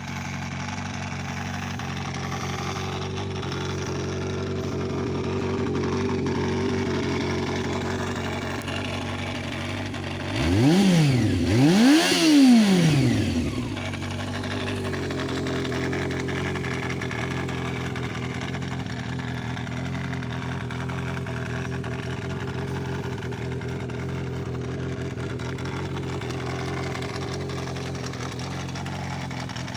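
Honda CB400 motorcycle engine idling steadily, blipped twice in quick succession about ten seconds in, the pitch rising and falling with each rev before settling back to idle.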